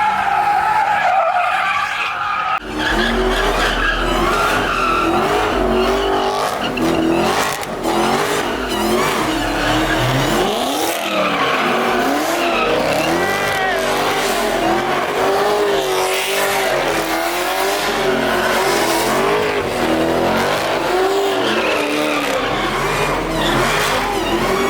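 A car's engine revving up and down over and over while its tyres squeal and skid, as in drifting or donuts.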